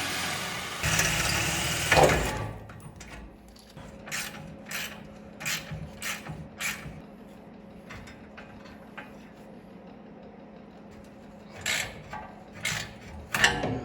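Hand tools working a rusted fender carriage bolt: about two seconds of loud scraping noise, then a run of sharp metal clicks roughly two a second, and a few more clicks near the end.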